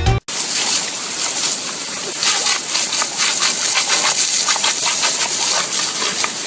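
Steady rushing, hissing water, starting abruptly about a quarter second in.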